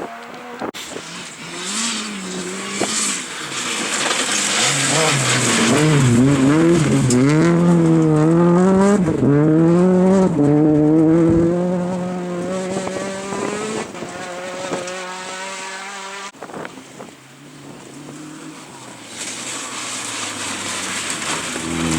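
Rally car engine driven hard, its pitch repeatedly climbing and dropping with gear changes and throttle lifts as the car approaches and goes by, then fading. About 19 seconds in, another car's engine rises as it approaches.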